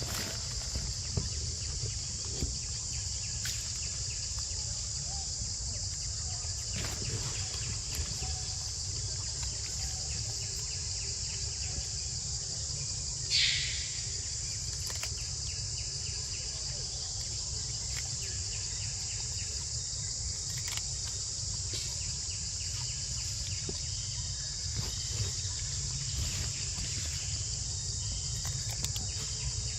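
Steady high-pitched insect chorus that runs without a break, over a low rumble. About thirteen seconds in, a short, louder call drops in pitch.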